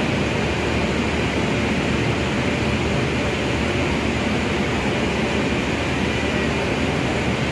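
Passenger train's coaches rolling slowly along a station platform, a steady rumbling noise without distinct wheel clatter.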